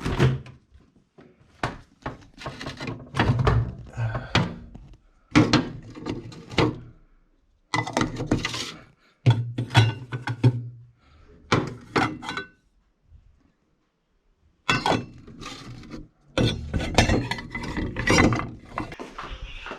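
Serving spoons knocking and scraping against pots and plates as food is dished out: a long, irregular run of short thunks and clinks in bursts.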